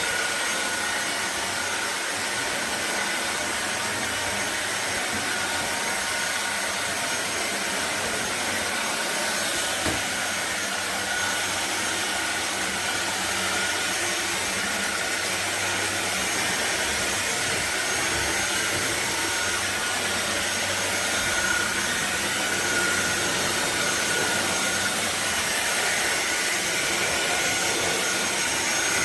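Fieety 550 W cordless stick vacuum running steadily: a constant rush of air with a high motor whine over it.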